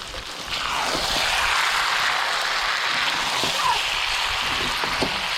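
Loud frying sizzle that jumps up about half a second in and then holds steady, with a few light knocks.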